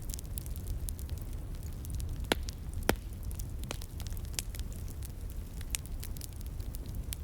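Wood fire crackling, with scattered sharp pops, the two loudest a little over two seconds and about three seconds in, over a steady low rush of a flowing stream.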